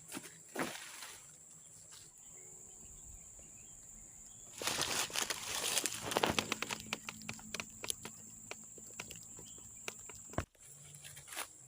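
Rustling and crackling in vegetation, dense for a couple of seconds about halfway through and then thinning to scattered ticks, over a steady high insect buzz.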